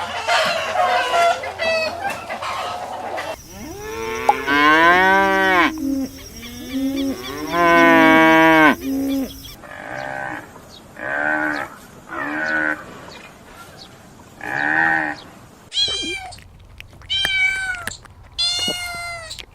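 A cow mooing twice in long, low calls. It is followed by a string of short meows from a cat, repeated about once a second and turning higher and more drawn-out near the end. Before the moos there is a brief tail of geese honking.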